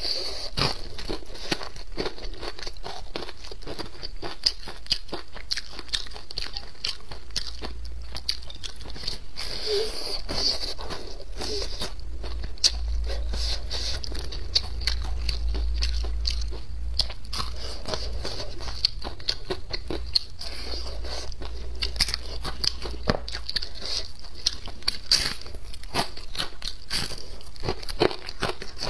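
Close-up chewing and crunching of deep-fried yellow croaker: the crisp fried coating crackles in a steady stream of small sharp crunches as it is bitten and chewed.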